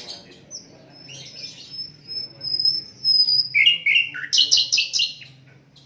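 Sikatan londo flycatcher singing: a long, thin, high whistle, then about halfway in a quick, louder run of short chattering notes that step up and down.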